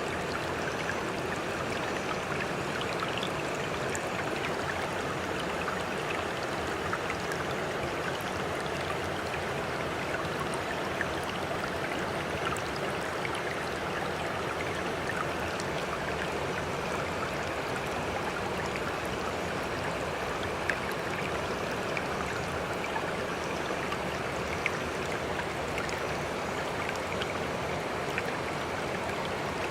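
Steady running water with scattered small splashes, even in level throughout.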